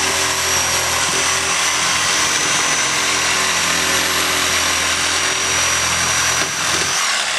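Corded Milwaukee electric saw running steadily, its blade cutting into the shell of a small green calabash; the motor stops shortly before the end.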